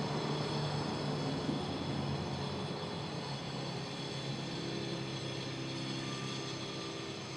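Subway ambience: a steady rumble and hum, as of a train or station machinery, with no clear events.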